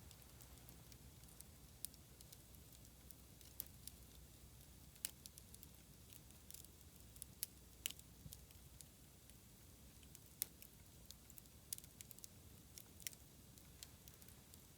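Wood campfire crackling: irregular sharp pops and snaps, a few louder than the rest, over a faint low rumble.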